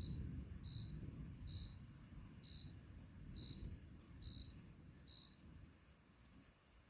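A cricket chirping about once a second, seven short high chirps that stop near the end, over the low rumble of distant thunder dying away.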